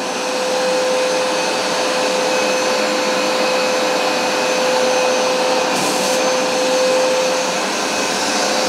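Hoover SmartWash Pet carpet cleaner running steadily over carpet: a constant motor whine over the rush of its suction. A brief higher hiss comes in about six seconds in.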